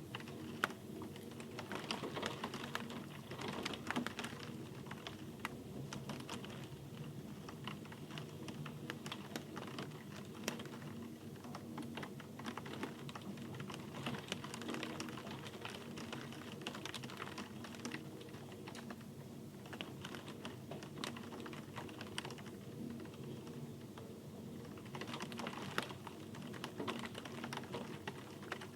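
Rain falling steadily, heard as a dense, irregular patter of sharp individual drop taps and clicks over a low hiss.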